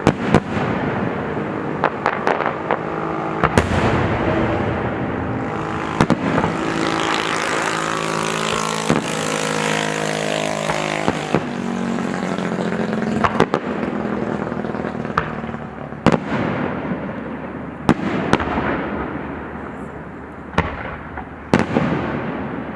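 Fireworks display: sharp bangs of shells bursting every second or two over a continuous rumble and crackle, with a louder hissing crackle swelling in the middle.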